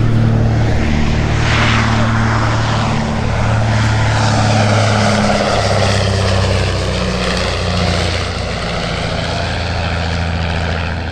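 Piston-engined propeller aircraft flying past with a steady engine drone. Its tone shifts and sweeps as it passes.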